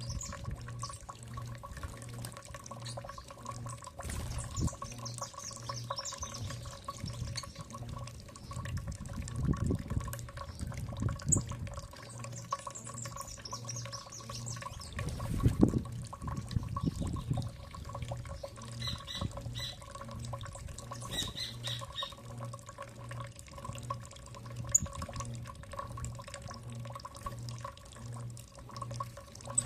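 Small birds chirping and calling intermittently over running, trickling water and a steady low hum that pulses about twice a second. Louder low rumbling noises come around ten and fifteen seconds in.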